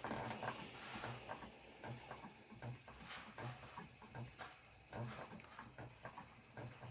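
Spinning wheel being treadled: a faint, even rhythm of low knocks about twice a second, with small clicks among them.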